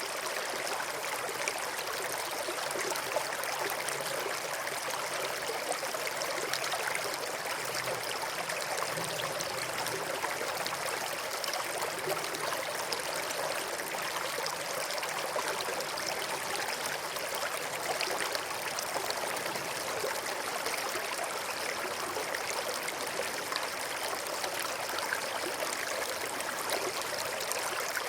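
River water flowing over and between rocks: a steady rushing and babbling.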